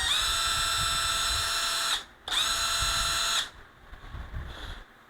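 Cordless drill-driver test-run with no load, its motor spinning with a steady high whine. It cuts out about two seconds in, starts again at once, and stops for good at about three and a half seconds.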